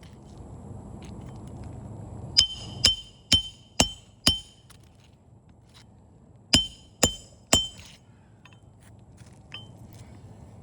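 A hammer striking steel with sharp, ringing blows. There are five strikes about half a second apart, a pause of two seconds, then three more, consistent with driving a roofing tool or nails under a shingle.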